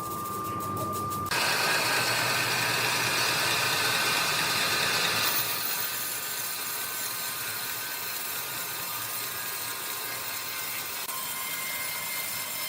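Sawmill wood-cutting machinery running, a steady noisy drone with a high whine. The sound jumps louder about a second in and changes again, a little quieter, about five seconds in.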